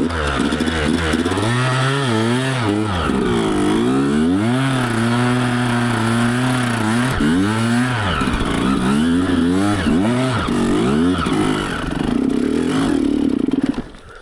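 Yamaha YZ125's single-cylinder two-stroke engine revving up and down repeatedly as the dirt bike is ridden, its pitch rising and falling several times, then dropping away near the end.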